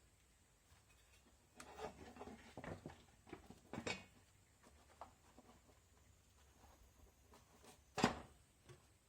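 Faint, scattered knocks and rubbing from handling something, in an irregular cluster, then one sharper click about eight seconds in.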